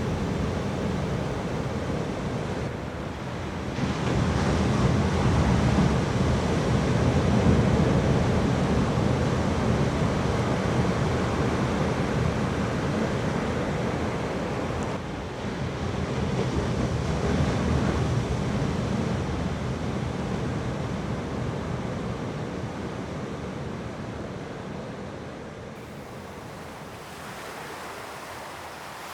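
Ocean surf washing in, with wind on the microphone. The wash swells louder about four seconds in and again around sixteen seconds, then fades toward the end.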